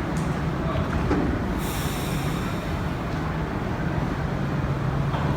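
Montreal Metro Azur MPM-10 train running, heard from inside the car: a steady rumble of the rubber-tyred train with a low hum, and a brighter hiss joining about a second and a half in.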